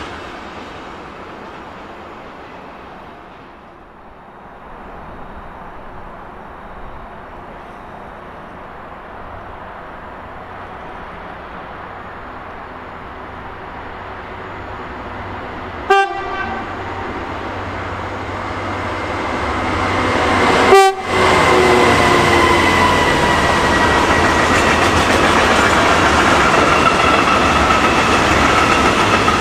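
Railway freight traffic: the rumble of a departing container train fades away, then an approaching freight train grows louder. A little past halfway it sounds two short horn toots about five seconds apart, the second louder. The loud, steady rumble and clatter of a long train of hopper wagons rolling past follows.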